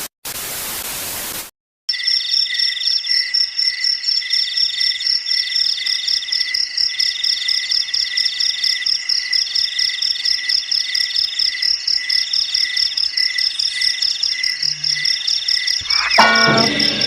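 A burst of static hiss lasting about a second and a half, then a steady chorus of crickets trilling in a fast, even pulse. A brief rising tone cuts in near the end.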